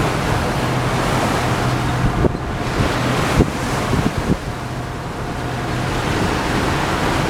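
Wind buffeting the microphone and water rushing past a moving boat, over a steady low engine hum. A few short thumps come in the middle.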